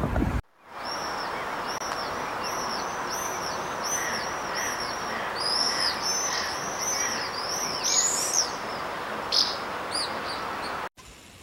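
Songbird outdoors giving a long run of short, repeated high chirps, about two or three a second, over a steady background hiss of outdoor ambience.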